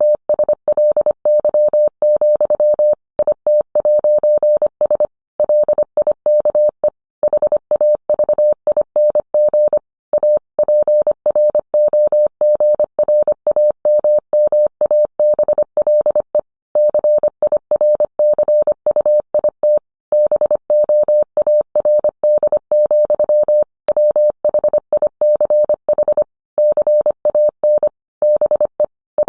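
Morse code (CW): a single steady tone of about 600 Hz keyed on and off quickly in dots and dashes, with short gaps between characters and longer gaps between words.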